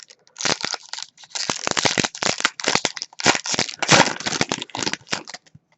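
A hockey card pack's wrapper being torn open and crinkled by hand: a dense run of sharp crackles from about half a second in, stopping just before the end.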